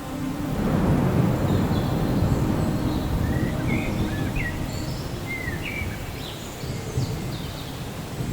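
Rolling thunder: a low rumble that swells about half a second in and slowly dies away. Birds chirp briefly in the middle.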